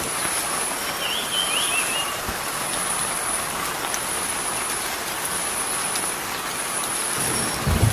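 Steady rushing hiss of outdoor ambience, with a high-pitched buzz that comes and goes and a short chirp about a second in.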